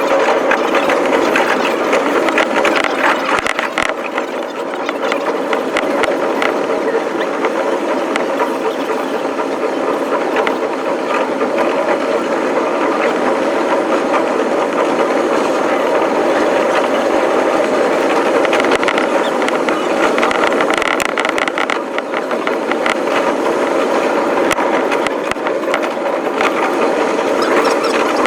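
Electric commuter train running along the line, heard from behind the cab and sped up about five times, so the wheel and rail noise turns into a fast, dense clatter with a steady hum under it.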